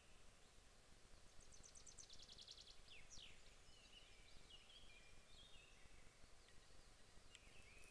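Faint songbirds calling: a rapid high trill about a second and a half in, then a falling note and a run of short whistled notes, over a low, even outdoor background hiss.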